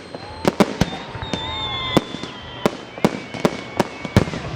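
Fireworks going off: a rapid, irregular string of sharp bangs, about a dozen in under five seconds, with drawn-out whistles that hold or glide slowly down in pitch between them.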